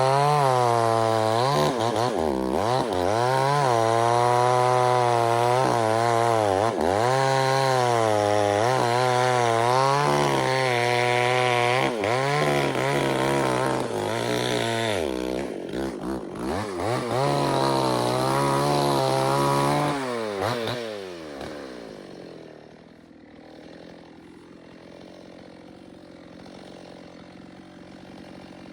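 Chainsaw running at high revs, its pitch dipping and recovering again and again. About twenty seconds in, its pitch falls away and the sound drops to a much quieter low background.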